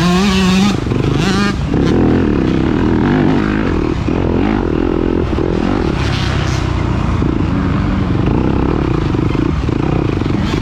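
Dirt bike engine running hard during an off-road race, its pitch rising and falling with the throttle.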